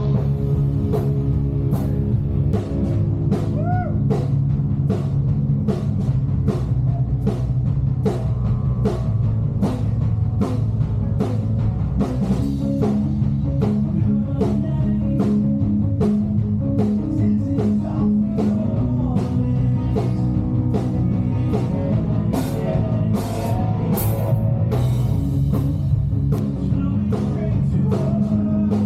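Live emo rock band playing: distorted electric guitars, bass and a drum kit keeping a steady beat, with a few sung lines.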